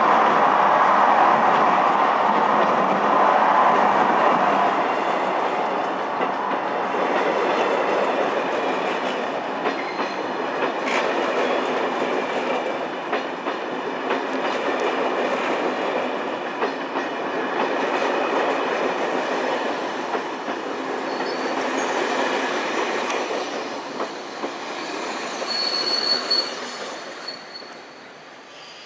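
Corail passenger coaches and car-carrier wagons of a night train rolling past along a platform, wheels clattering over the rail joints. Near the end a high wheel squeal rings out, then the noise fades as the last coach goes by.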